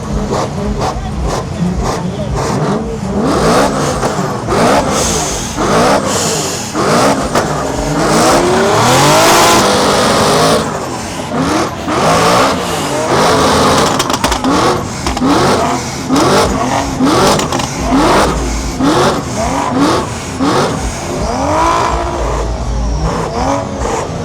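Drift car's engine revved hard over and over, its pitch climbing and dropping about once a second, with a harsh rush of noise around nine seconds in.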